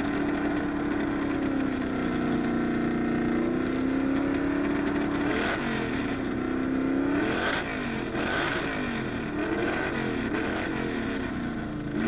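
Freshly rebuilt Ford 302 V8 running through open headers, held at a steady fast idle for about five seconds, then revved up and down again and again.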